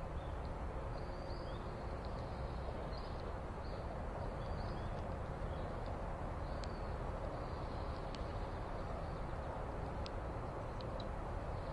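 Small birds give short, faint chirps many times over a steady low outdoor rumble.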